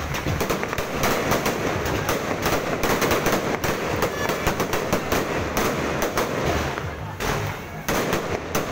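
Aerial fireworks going off in a rapid barrage: many sharp bangs close together over continuous crackling.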